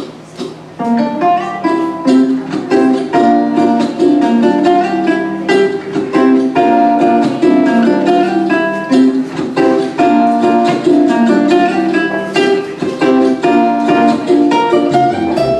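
Fingerstyle ukulele playing an instrumental melody of quick plucked notes over a backing track, starting about a second in.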